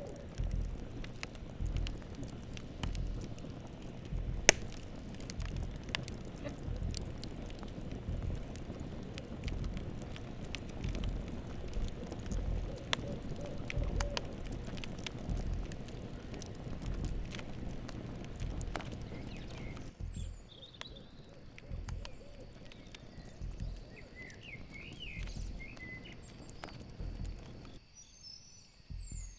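Campfire crackling and popping over a low rumble of burning wood, with one sharp, loud pop about four seconds in. An owl hoots briefly near the start and again midway, and about two-thirds through the fire drops back while bird chirps and a steady insect trill come in.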